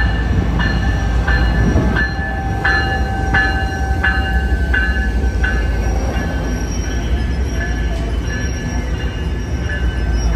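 Amtrak Capitol Corridor train with a Union Pacific diesel and a Siemens Charger locomotive rolling slowly past, with a deep engine and rail rumble. A locomotive bell rings about three strokes every two seconds, loudest in the first half and fainter after about six seconds.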